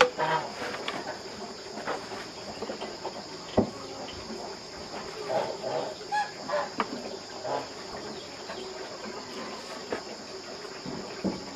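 Chickens clucking over a steady high-pitched drone of insects, with a few sharp knocks.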